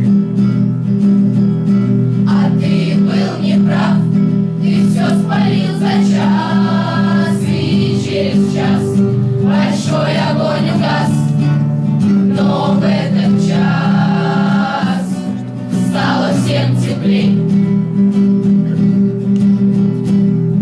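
Music: a group of voices singing together over a strummed acoustic guitar.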